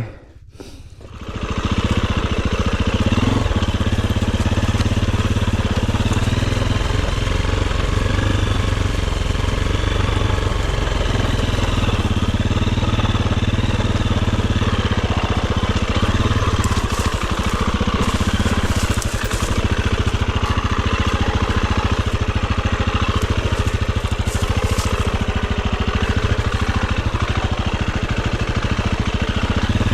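Dirt bike engine running loud and steady, coming up from quiet about a second in.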